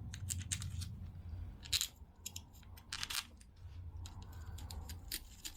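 An M6 clutch-cover screw being turned into the aluminium engine case by hand, with a run of small sharp metallic clicks and light scraping in the threads. The threads grind slightly from leftover sand, just cleaned and oiled. A steady low hum sits underneath.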